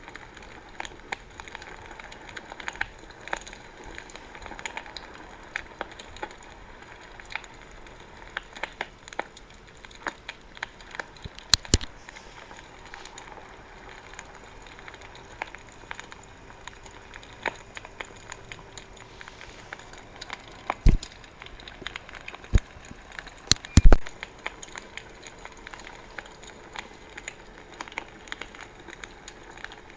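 Wood fire crackling, with many small snaps over a soft hiss of flames. A few much louder pops come at about twelve seconds and again three times between about 21 and 24 seconds.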